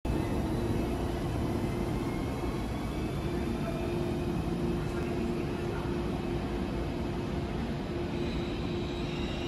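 Deutsche Bahn ICE electric train pulling out of the platform and moving away: a steady hum with one held tone, and faint high whines that rise slightly near the end.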